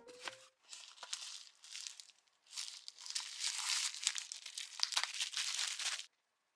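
Rustling and crinkling with small clicks, as of paper or plastic being handled, in several stretches that stop abruptly near the end.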